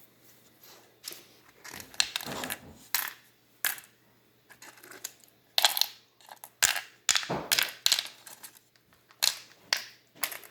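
Small hard game pieces clicking and clattering against a tabletop, in irregular separate knocks.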